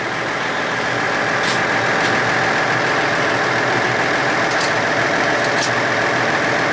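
Oigawa Railway train working the Abt rack section on the 90‰ grade: steady mechanical running noise with a held tone, broken by a few short clicks.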